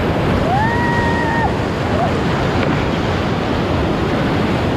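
Whitewater of a river rapid rushing steadily around a raft. About half a second in, one short high call rises and then holds for about a second.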